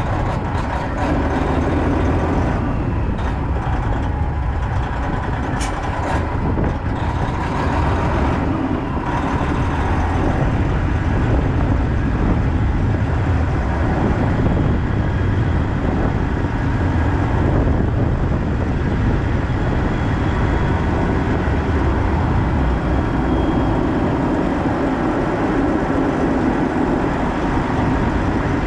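Semi truck running steadily, its engine sound heavy at the low end.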